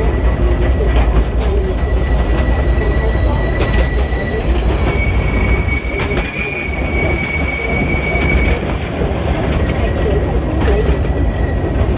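Small tourist train running along its track, with a low rumble, a steady high-pitched wheel squeal that comes and goes, and scattered clicks from the wheels on the rails.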